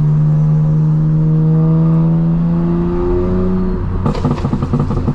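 Straight-piped BMW M4 Competition's twin-turbo inline-six exhaust, loud and steady under light throttle with its pitch slowly rising, then dropping off about four seconds in into a choppy burble with crackles and pops as the throttle closes.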